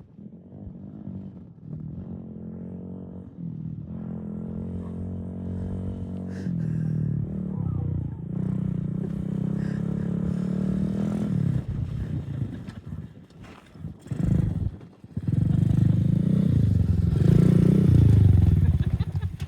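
Small dirt bike's engine running under a new rider, the pitch climbing and falling as the throttle opens and closes; it eases off for a few seconds partway through, then picks up again louder near the end.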